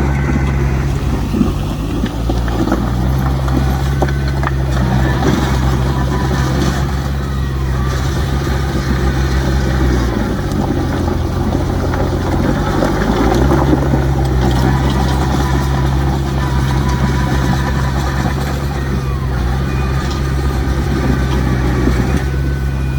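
Heavy diesel engine of earthmoving machinery running steadily, with a rough rattling noise over it. About ten seconds in the engine note drops, then climbs back a few seconds later.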